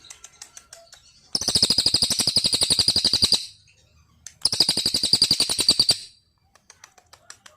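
A songbird singing two long, rapid trills of fast repeated high notes, separated by a short pause of about a second.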